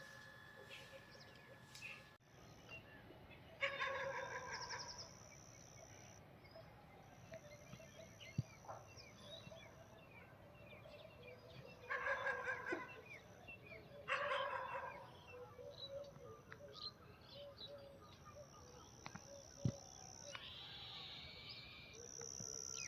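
Birds calling: three loud calls of about a second each, about 4, 12 and 14 seconds in, with fainter chirps between.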